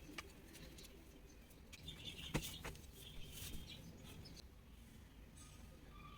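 Faint, sparse bird chirps, with a single sharp click about two and a half seconds in.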